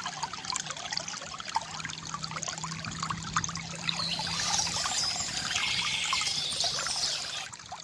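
Water trickling and pouring from a bamboo fountain, a dense stream of small splashes and gurgles with a faint steady low hum beneath. It fades down just before the end.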